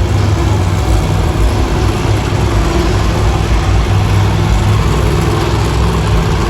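Monster truck engine running loud and steady, a continuous deep rumble.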